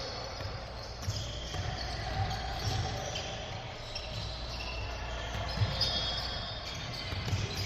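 Basketballs bouncing on a gym floor in irregular low thumps, with short high squeaks of sneakers on the court and a murmur of voices.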